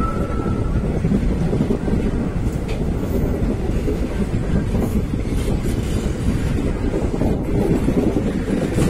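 A passing train: a steady rumble of wheels on rails, with a clatter over the rail joints.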